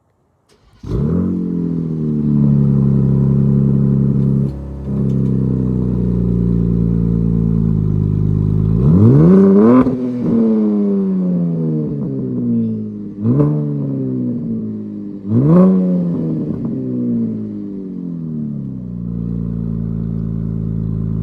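2026 Dodge Charger's engine sound coming on about a second in and holding a steady idle. It is then revved three times, each rev a quick rise in pitch that falls back to idle.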